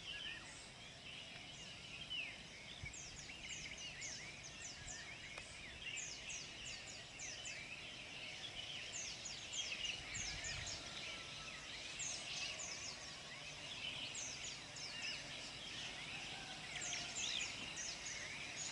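Morning chorus of several songbirds calling at once. Bursts of rapid, high, falling notes come every second or two over a steady stream of shorter chirps.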